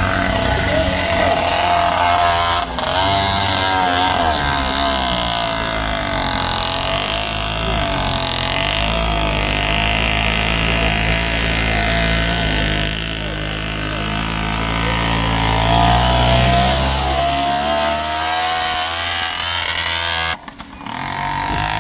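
Heavy diesel vehicle engines running and revving, their pitch rising and falling as they work under load. A brief drop in the sound near the end.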